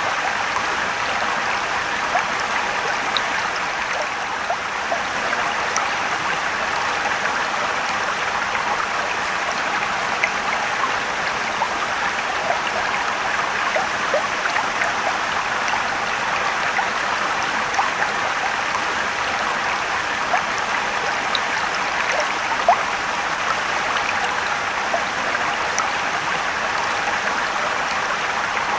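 Steady rush of a mountain stream and small waterfall, water trickling and splashing over rocks with small scattered droplet splashes.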